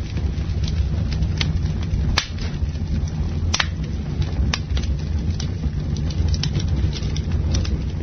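Campfire crackling, with irregular sharp pops (the loudest about two, three and a half, and four and a half seconds in) over a steady low roar of the burning fire.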